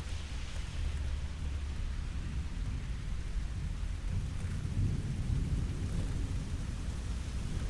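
Thunderstorm: steady rain falling, with a deep rolling rumble of distant thunder that swells about halfway through.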